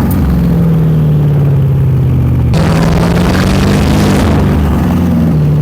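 The 2006 Porsche Cayenne Turbo's twin-turbo V8 running with its muffler deleted while driving. The engine note sags for a couple of seconds, then about halfway in the throttle opens and it pulls harder with a rising pitch, easing off near the end. The turbos can be heard under the V8 as it accelerates.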